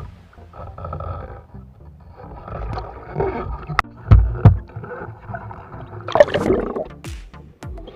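Muffled underwater sounds picked up by a diving camera: low rumbling and bubbling, scattered knocks and clicks, with two heavy thumps about halfway through.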